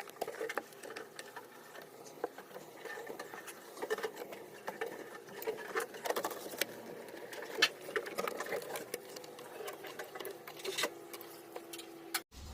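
Hand-cleaning the plastic inside of a refrigerator: irregular light scrubbing and scraping with small clicks and knocks. A brief steady hum near the end, then the sound cuts off abruptly.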